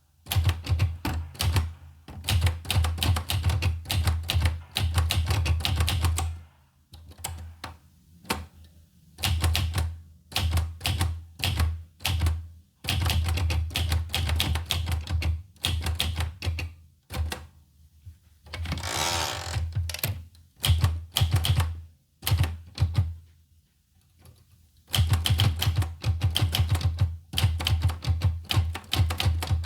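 Olivetti Lettera 25 manual portable typewriter being typed on: runs of rapid key strikes broken by short pauses. About two-thirds of the way through there is a longer sliding sound of about a second.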